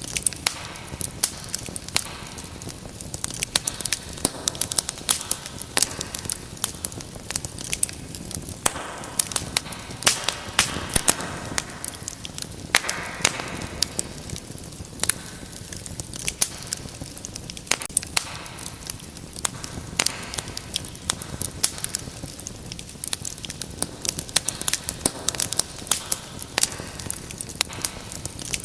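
Wood fire burning in a fireplace: a steady low hiss of flames with frequent irregular sharp crackles and pops, and a few brief louder surges of hissing.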